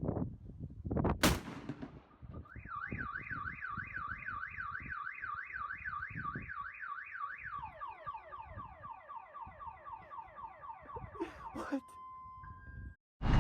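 Car alarm siren cycling through its tones: a fast up-and-down warble at about four sweeps a second, then a run of repeated falling sweeps, then a few short steady beeps near the end. A single sharp crack comes about a second in.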